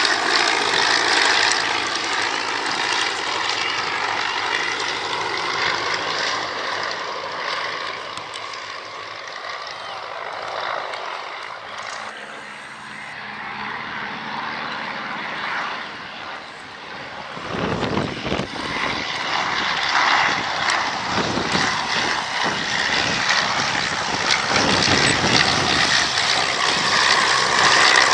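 A display aircraft flying past, most likely propeller-driven: its engine fades away toward the middle, then grows loud again in the second half. Gusty wind rumbles on the microphone in the second half.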